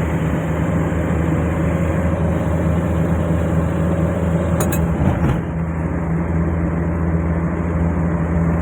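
Motor vehicle engine and road noise: a steady low engine hum over a rough rumble, which shifts briefly about five seconds in.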